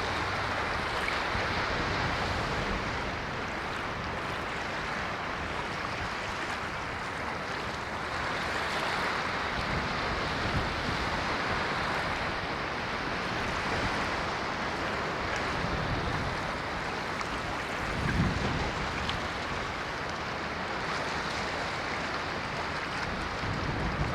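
Ocean waves washing onto a shore: a continuous hiss of surf that swells and eases every few seconds, with a heavier low thud from a breaking wave about three-quarters of the way through.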